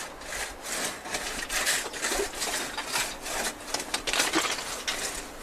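Ice being cut by hand with a saw: irregular rasping, scraping strokes of the blade through ice.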